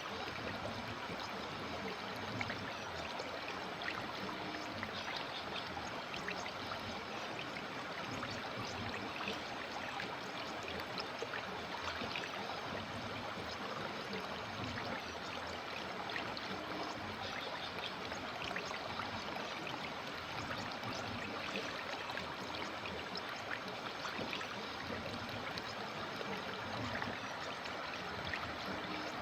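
A river stream flowing steadily over rocks, with an even rush of water and many small splashes and trickles.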